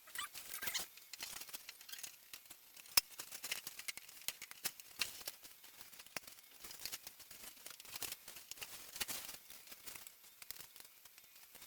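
Irregular light clicks, taps and rustling of hands fitting and handling the wooden parts of a balsa and plywood model aircraft kit on a workbench, with one sharper click about three seconds in.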